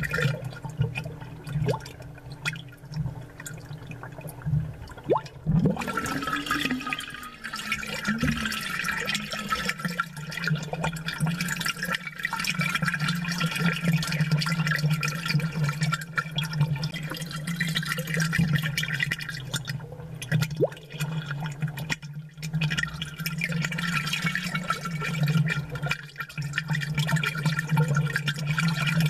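Aquarium air bubbles and water gurgling, picked up close and amplified, over a steady low hum from the tank's pump. The bubbling is softer for a few seconds near the start and grows fuller about six seconds in.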